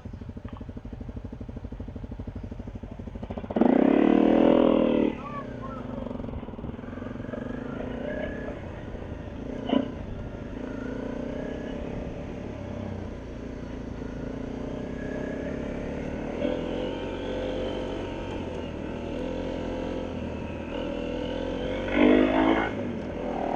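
Honda CRF250L's single-cylinder four-stroke engine, ticking over at first, then revved loudly for a second or two as the bike pulls away. It then runs on under throttle along a dirt trail, its pitch rising and falling with the throttle. There is one sharp knock about ten seconds in and another loud rev near the end.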